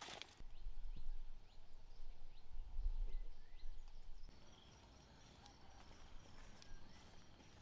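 A deep, gusty low rumble like wind buffeting the microphone for about four seconds, then an abrupt change to quiet outdoor ambience with a steady high-pitched whine and a few faint clicks.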